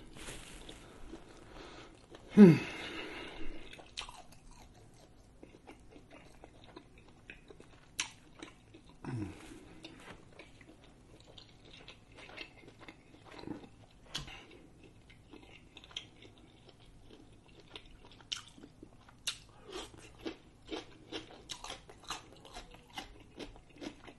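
Close-miked mouth chewing grilled shrimp: soft wet smacks and clicks that grow quicker over the last few seconds. About two seconds in comes a loud falling "mmm" of enjoyment, and a softer one around nine seconds.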